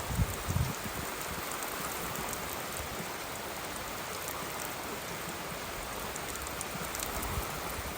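Steady rain falling in a big rainstorm, a constant hiss of drops, with a few low thumps in the first second.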